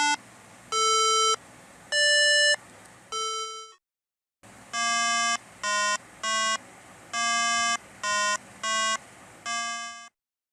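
A string of short, steady, beep-like pitched tones: four notes at different pitches, a pause of about a second, then seven more, each held well under a second with a sharp start and stop.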